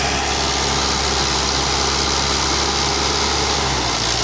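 Tractor engine running steadily, its low note shifting slightly near the end.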